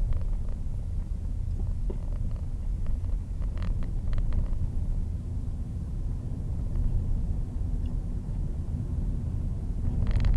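Steady low rumble of a vehicle on the move, with a few faint clicks or rattles.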